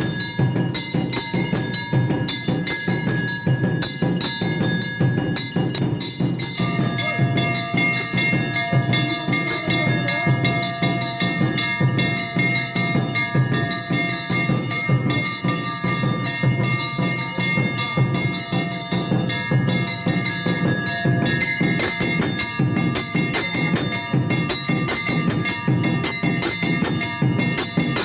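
Temple bells ringing continuously over fast, steady percussion during a Hindu evening aarti. Several bell tones ring out more clearly about six seconds in.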